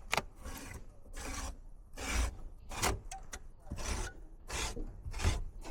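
Repeated scrubbing strokes against an evaporator A-coil, about seven in all at a bit more than one a second, clearing a layer of lint from the coil face.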